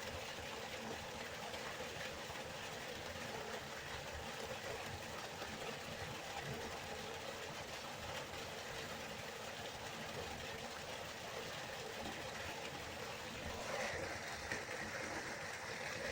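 Waterfall: a steady rush of falling water, with the hiss growing a little brighter and louder about fourteen seconds in.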